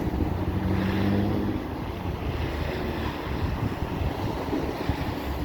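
Storm wind buffeting the microphone as a steady rushing noise with low rumbles. A vehicle's engine hum swells and fades in the first two seconds.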